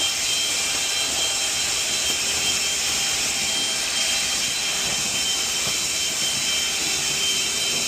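Drain-cleaning machine running steadily, an even motor hiss with a high-pitched whine held throughout.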